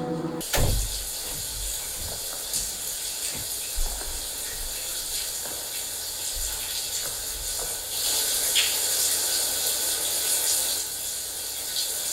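Soundtrack of a moving train: a steady rushing hiss with scattered rattles and clicks, opening with a thump about half a second in and growing louder about eight seconds in.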